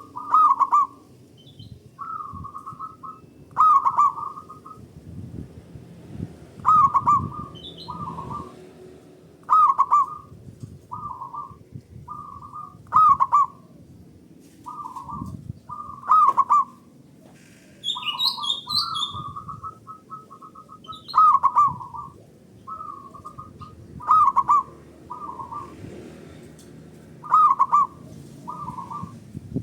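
Zebra doves (perkutut) singing their cooing song: loud, short, rhythmic coo phrases repeated every couple of seconds, as several birds call back and forth. About eighteen seconds in, another small bird briefly twitters, high-pitched.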